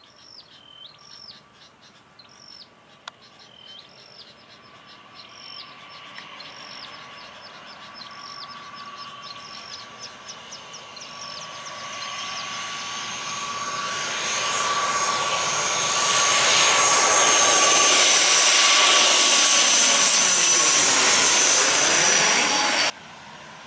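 Jet airliner passing low overhead: the engine noise builds steadily from faint to loud, with a high fan whine that drops slightly in pitch as the plane goes over, then cuts off suddenly near the end. At the start a bird calls repeatedly under the growing engine noise.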